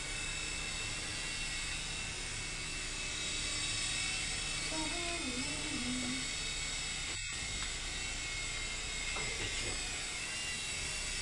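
Blade Scout CX micro electric RC helicopter in flight: the steady, high-pitched whine of its small electric motors and spinning coaxial rotors. A short break in the sound a little after the midpoint.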